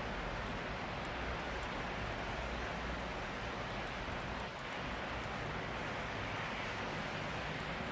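Steady rain falling, an even hiss with faint scattered drip ticks, over a low rumble of distant traffic.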